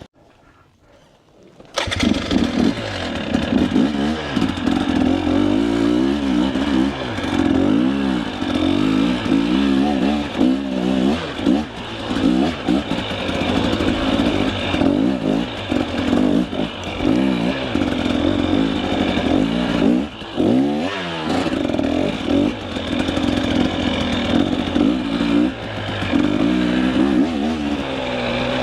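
Near silence for the first couple of seconds, then a two-stroke enduro dirt bike engine revving hard and dropping back again and again, the pitch swinging up and down, as the bike works through a technical uphill trail section.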